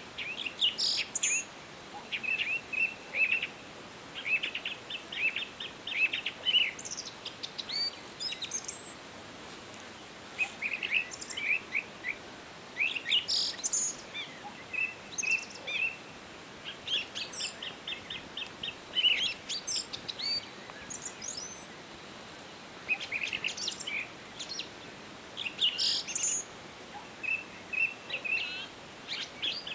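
Songbirds singing in a forest: short phrases of quick chirps and rapid trills, repeated every few seconds, with some higher sweeping notes, over a faint steady hiss.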